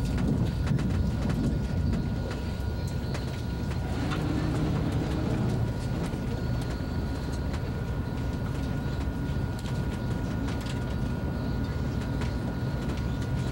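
Running noise of a first-generation ICE high-speed train heard from inside the carriage: a steady low rumble with scattered light clicks.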